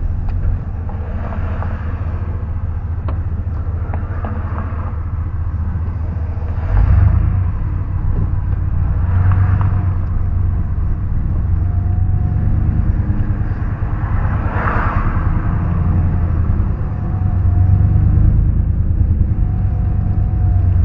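A moving car's engine and road noise as picked up by a dashcam: a steady low rumble, with a few brief swells of louder noise now and then.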